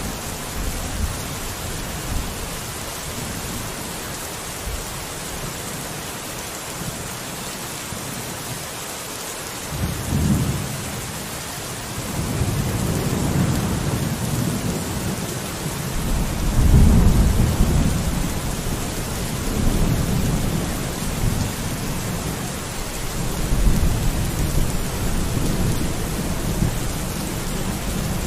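Steady rain hissing, with low rolling thunder rumbling in about a third of the way through. The thunder swells to its loudest just past the middle and keeps rumbling in waves after that.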